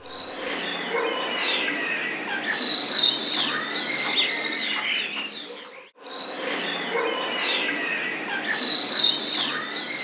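A chorus of forest birds, several chirping and whistling at once, with a loud high whistle about two and a half seconds in. The passage breaks off briefly near the middle and the same birdsong repeats.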